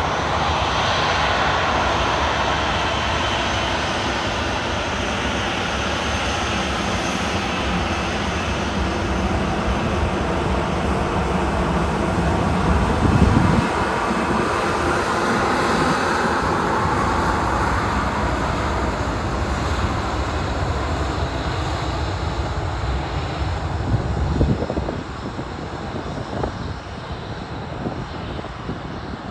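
Boeing 737-800 jet engines at taxi power: a steady loud roar with a turbine whine that glides down in pitch as the airliner passes, fading in the last few seconds. Wind buffets the microphone with a low rumble about halfway through and again about 25 seconds in.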